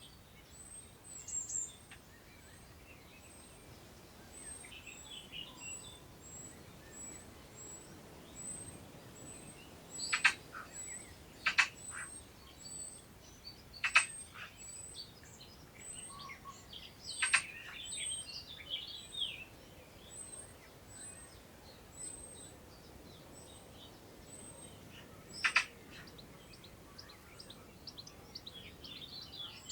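Countryside birdsong: a thin, high note repeated steadily about every two-thirds of a second, scattered warbling phrases from other birds, and five sharp, loud ticks between about ten and twenty-six seconds in, over a faint hiss of wind in long grass.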